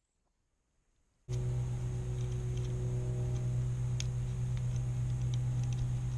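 Dead silence for about a second, then a steady electrical hum starts abruptly and runs on, with a few faint scattered clicks of small handling.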